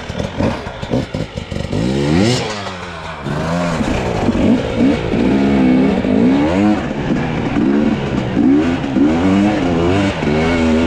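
Two-stroke enduro dirt bike engine revving hard on a steep hill climb, its pitch rising and falling again and again as the rider works the throttle; choppy and clattery for the first couple of seconds.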